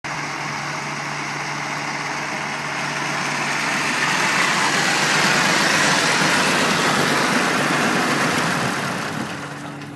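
Tractor engine running, growing louder about four seconds in and easing off near the end, over a steady low hum.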